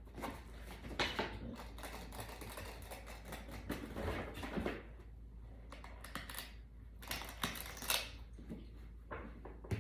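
A dog rummaging in gift wrapping and tissue paper: irregular crinkling, rustling and small clicks, with a few sharper crackles.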